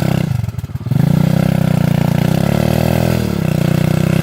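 Irbis TTR 110 pit bike's small single-cylinder four-stroke engine: the revs sag for a moment, then the throttle opens about a second in and it runs hard under load, its pitch wavering, as the bike pulls away from a stop.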